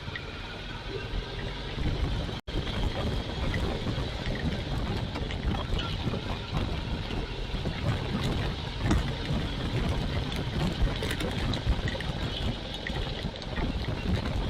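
Royal Enfield Classic 350's single-cylinder engine running steadily under way, mixed with dense wind and road noise on a bike-mounted action camera. The sound cuts out completely for an instant about two and a half seconds in.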